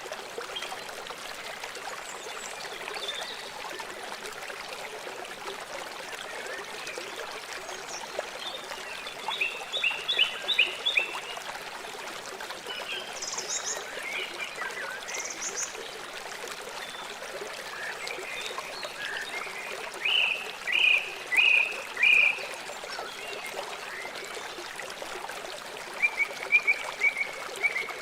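River water flowing and trickling steadily, with birds calling over it in short runs of quick chirps: about a third of the way in, around two-thirds in, and again near the end.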